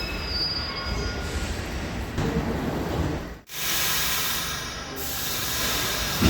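New York City subway train running through a station, with thin, high wheel squeal over a steady rumble. The sound cuts out for an instant about three and a half seconds in, then a brighter rushing train noise follows.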